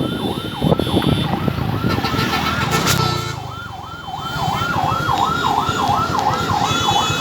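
An electronic yelp siren sweeping quickly up and down in pitch, the sweeps getting faster, over an engine running underneath.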